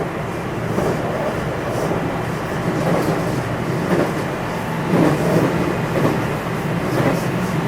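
Running noise inside a JR West 227 series electric train's motor car (Hitachi IGBT VVVF drive): a steady hum and rumble, with the wheels knocking over rail joints several times.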